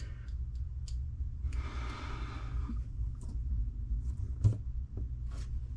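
Small sharp clicks and handling noises of hand tools and small parts as an electric motor is fitted back into an RC drag car chassis, with one louder click about four and a half seconds in. A soft rushing sound lasts about a second near the two-second mark, over a steady low hum.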